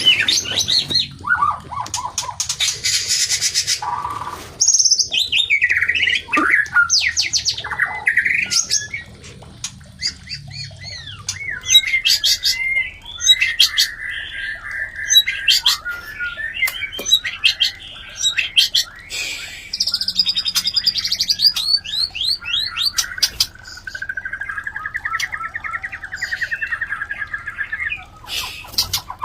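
White-rumped shamas giving mating calls: a busy mix of gliding whistled phrases and harsh squawks, with fast buzzy rattling trills and many sharp clicks.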